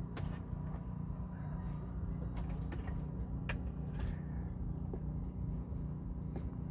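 Steady low mechanical hum, as of a running motor, with a few faint clicks and knocks.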